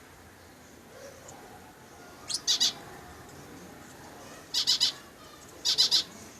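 Parrot calling in three short bursts of high-pitched notes, each burst two or three quick notes, starting about two seconds in.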